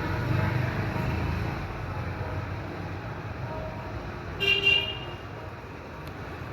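Steady low rumble of road traffic, with a vehicle horn giving two short toots about four and a half seconds in.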